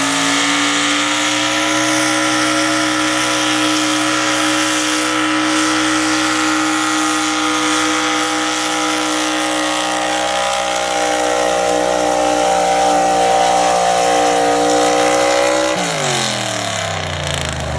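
Super stock two-wheel-drive pulling truck's engine held at high, steady revs at full throttle while it drags the weight sled, then falling in pitch near the end as the throttle comes off and the run ends.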